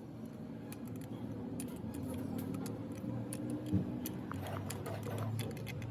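Light metallic clicks and clinks of tools and metal parts being handled during gearbox repair work, over a steady low hum. One louder knock comes nearly four seconds in.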